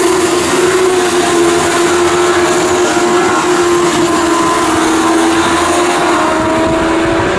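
Race car engine running at high revs, its note held loud and steady and easing slightly lower in pitch.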